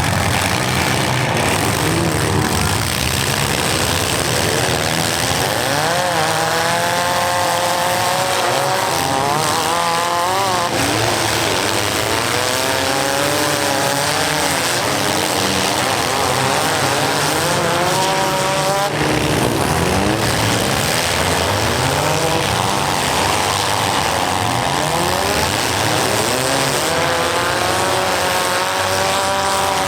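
Several compact-car engines revving up and down at the same time during a demolition derby heat, their pitches rising and falling against one another over a steady wash of noise.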